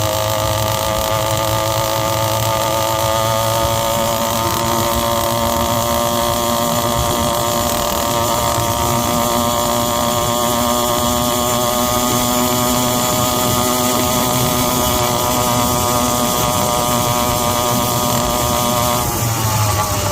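Zeda YD100 two-stroke motorized-bicycle engine running under way through its expansion-chamber pipe, its note climbing slowly as it gains speed. Near the end the pitch drops quickly as the throttle comes off. Wind buffets the microphone throughout.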